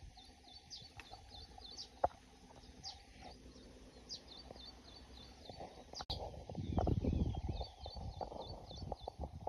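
Small birds calling, in repeated quick runs of short high chirps of about half a dozen notes each. Two-thirds of the way in, a louder low rumbling noise sets in under the chirping, along with a couple of sharp clicks.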